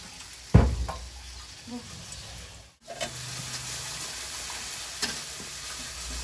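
Chopped shallots and garlic sizzling in hot oil in an aluminium wok, stirred and scraped with a metal spatula. A sharp knock of the spatula on the wok about half a second in, and the sound cuts out for a moment just before halfway.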